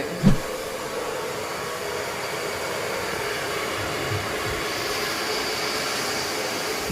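A steady rushing noise with a faint high whine that runs unchanged, then cuts off suddenly at the end.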